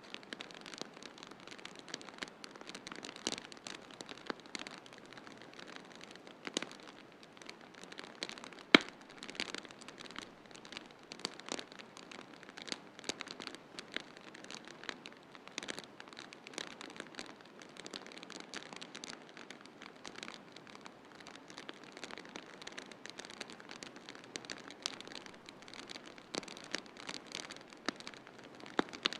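Wood fire crackling in a fireplace: irregular sharp snaps and pops, with one loud pop about nine seconds in, over a steady hiss of snowstorm wind.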